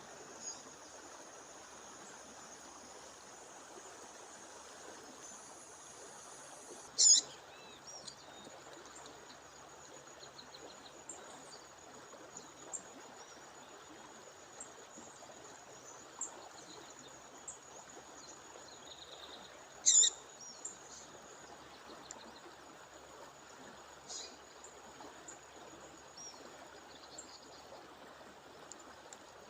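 Female songbird giving short, sharp, high call notes every several seconds, the loudest about 7 and 20 seconds in with fainter chirps between, over the steady rush of a waterfall.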